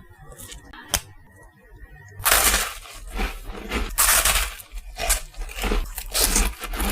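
Close-miked crunching of a crisp chocolate snack being bitten and chewed: a dense run of loud, crisp crunches, a few a second, starting about two seconds in, after a single sharp click about a second in.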